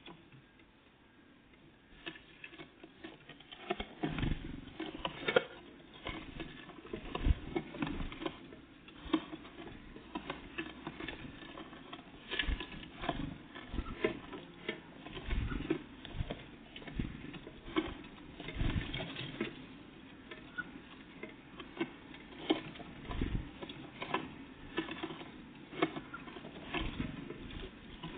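Small birds pecking and scrabbling at seed on a feeder close to the microphone: irregular rapid taps and scratches that start about two seconds in and go on without a break.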